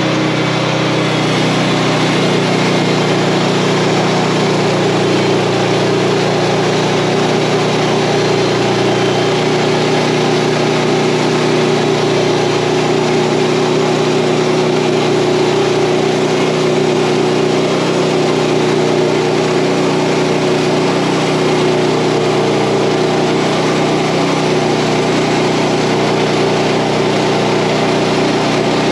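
OS31 portable bandsaw mill's small gas engine running steadily under load as the blade saws through a wide American elm log, its pitch dropping slightly about nine seconds in.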